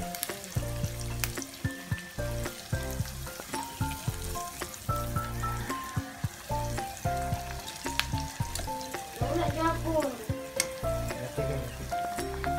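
Cornstarch-breaded pork chops sizzling as they fry in oil in a pan, with sharp clicks of tongs turning them. Background music with a melody and a pulsing bass plays over it.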